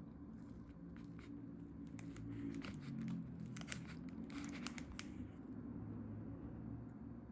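Plastic food packaging being torn open and crinkled, with a cluster of sharp crackles about two to five seconds in, over a low steady hum.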